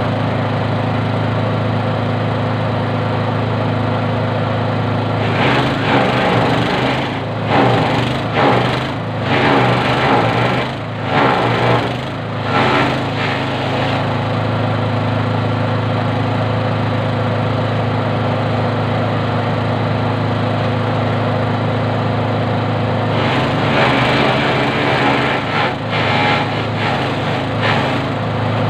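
Grass chopper machine running steadily with an even hum. Louder rushes of chopping noise come and go between about five and thirteen seconds in and again near the end, typical of material being fed through its blades.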